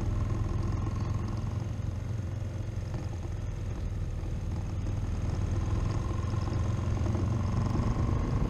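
Motorcycle engine running steadily while riding, a continuous low rumble from the bike's onboard camera.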